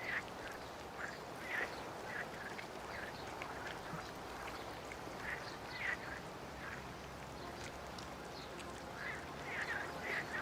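Birds calling: short, separate calls repeating irregularly, about one or two a second, over a faint steady background.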